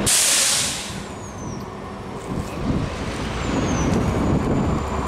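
A freight train's cars rolling slowly past, a continuous low rumble with a few faint, high, falling squeals. It opens with a sharp burst of hiss lasting under a second, the loudest thing here.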